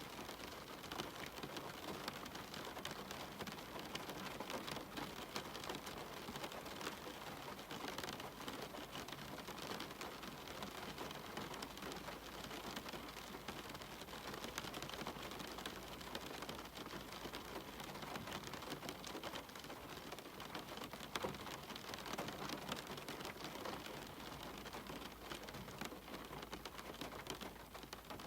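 Steady rain falling, many fine drops pattering on surfaces, with no thunder.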